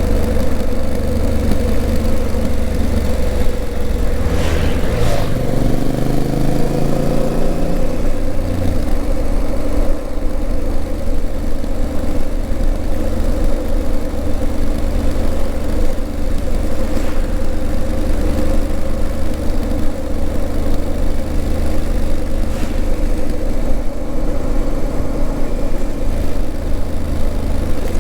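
Honda CRF1000L Africa Twin's 998 cc parallel-twin engine running steadily under way, its note shifting in pitch for a few seconds about five seconds in before settling again.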